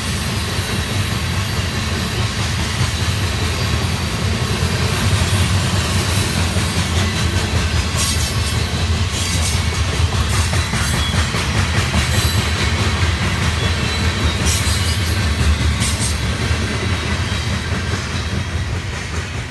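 Freight train of covered hopper cars rolling past on steel wheels: a steady low rumble with wheels clacking on the rails and brief high-pitched wheel squeals now and then, mostly in the middle stretch.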